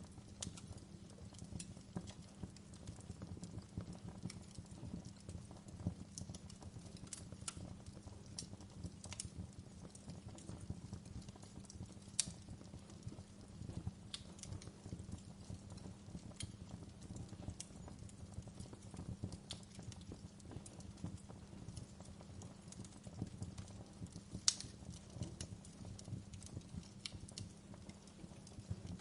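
Wood fire crackling in a fireplace: scattered sharp pops and crackles over a low steady rumble, with two louder pops, one about twelve seconds in and one late on.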